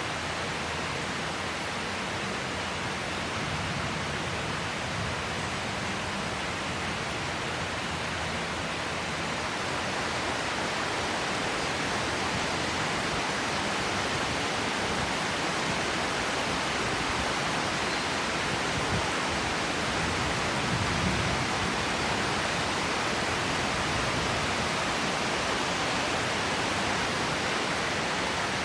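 Heavy tropical rain falling steadily, a dense even hiss that grows slightly louder partway through.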